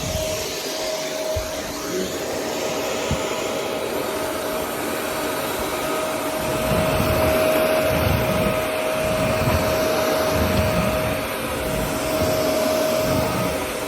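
Shark Navigator NV350 upright vacuum cleaner running with a steady motor whine. It gets louder from about six seconds in, eases off near eleven seconds, and rises again briefly near the end.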